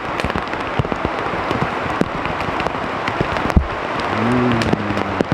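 Rain falling on a tarp shelter: a steady hiss with many sharp individual drop hits.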